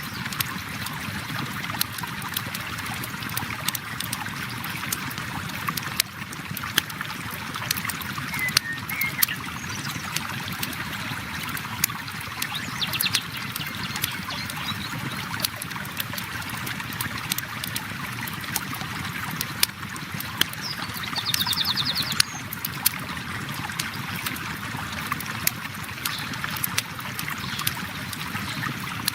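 Steady rush of flowing river water mixed with frequent sharp crackles and pops from a wood campfire. A few brief high chirps from birds come through, around the middle and again a little past two-thirds of the way.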